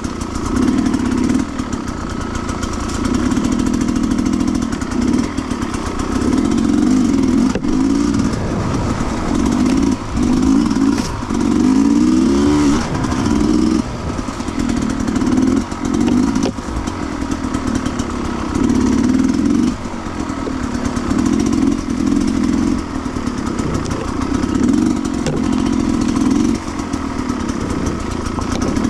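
Sherco 300cc two-stroke enduro motorcycle engine riding off-road, revving up and dropping off again and again as the throttle is worked, with brief pitch climbs and a few sharp knocks from the bike over the trail.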